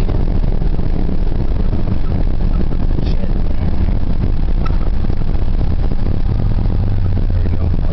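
Ford 4.9-litre (300) straight-six of a 1990 F-150 pickup running while driving, heard from inside the cab as steady engine and road noise. A low drone grows stronger near the end.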